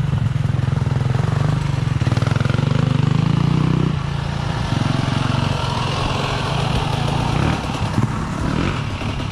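Motorcycle engines running close by, loud and steady for about four seconds, then dropping away to a lower, thinner sound.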